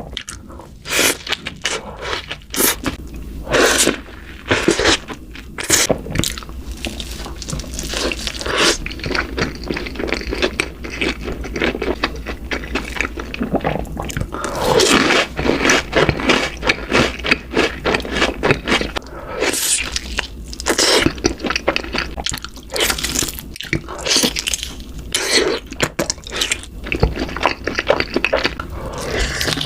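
Close-miked eating: a run of crunching bites and chewing, many short, sharp sounds one after another.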